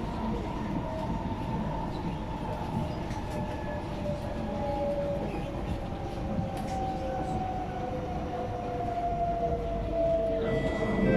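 Inside a metro train car, steady running noise with the traction motors' whine falling slowly in pitch as the train slows down.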